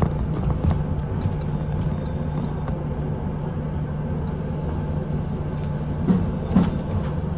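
Kintetsu express train running, heard from inside the front of the car: a steady low rumble with a steady hum and light clicks from the wheels on the track, with two louder knocks about six seconds in.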